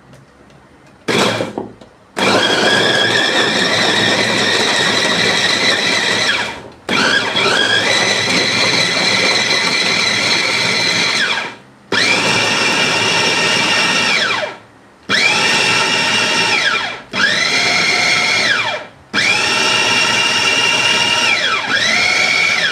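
Electric meat grinder motor running in about six bursts of a few seconds each, grinding pumpkin for dog food. Its whine rises as it spins up and drops away each time it stops.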